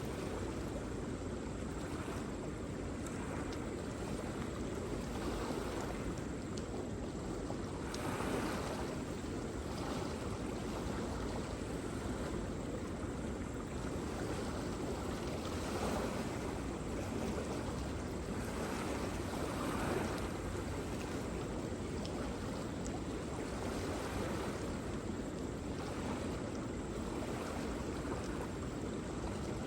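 Waterfall: a steady rush of falling water, swelling briefly a few times.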